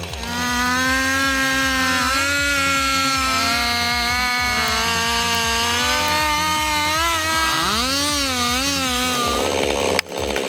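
Chainsaw running at high revs while cutting into a tree, its pitch steady at first, then dipping and rising several times under load before it stops near the end.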